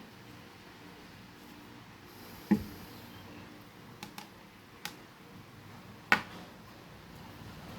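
A few sharp clicks and light knocks, like small hard parts being handled or set down, over a faint room hum. The two loudest come about two and a half and six seconds in, with smaller ticks between them.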